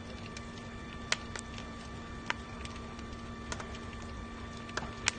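Burning house crackling: irregular sharp pops and cracks, about a dozen, over a steady low hum.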